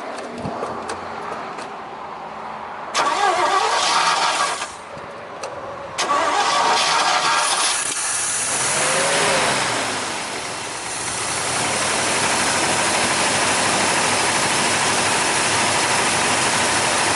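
Chevy truck's 327 V8 being cranked by the starter in two tries, the second catching about eight seconds in; the engine then runs steadily.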